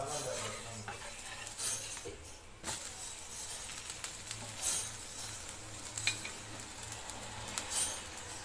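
Pearl millet dosa frying in oil on a hot tawa with a steady sizzle. A metal spatula scrapes briefly against the pan several times as it works under the dosa.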